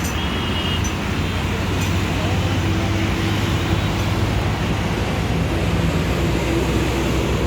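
Steady traffic and road noise with a low hum, and a short high beep just at the start.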